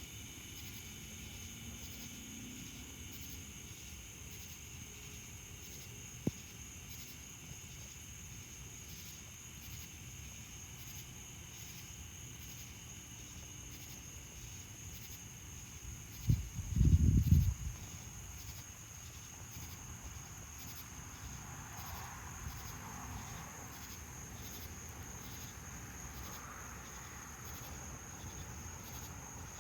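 Dusk chorus of cicadas: a steady high buzz that pulses about once a second. About 16 seconds in, a brief low rumble lasting about a second and a half is the loudest sound.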